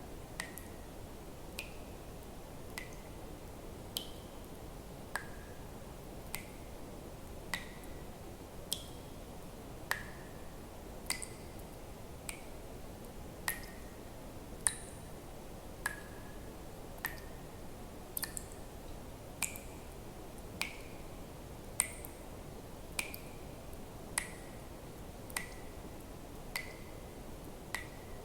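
Water drops falling one at a time into water, an evenly spaced plink about every second, each a sharp click with a brief ringing tone whose pitch varies from drop to drop, over a faint steady hiss.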